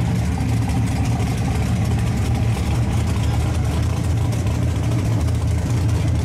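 Fox-body Mustang drag car's engine idling with a steady, choppy low rumble as the car creeps slowly forward.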